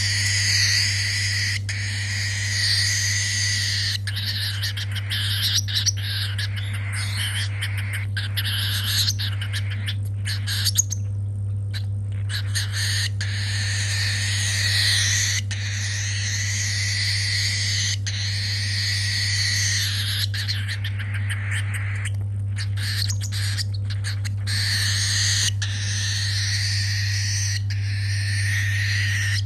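Baby cockatiel's almost continuous raspy, wavering begging calls, the hungry chick's food-begging, breaking off briefly about midway. A steady low hum runs underneath.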